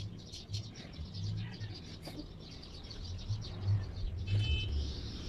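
Birds chirping in quick repeated calls, several a second, thinning out after about a second, over a faint low rumble.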